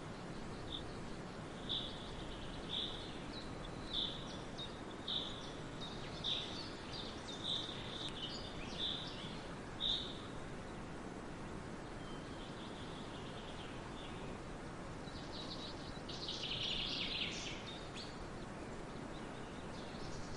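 Forest birdsong: a bird repeats a short high note about once a second for the first half, then a brief flurry of chirps comes near the end, over a steady background hiss.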